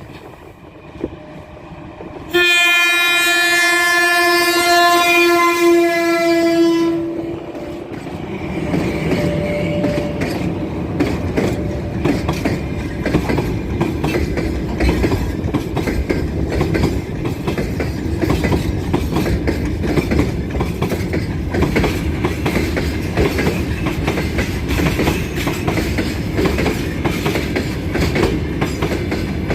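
A 3ES5K 'Ermak' electric locomotive sounds its horn in one long blast of about four and a half seconds. The freight train then passes with a steady rumble and the rapid clatter of wheels over the rails, growing louder.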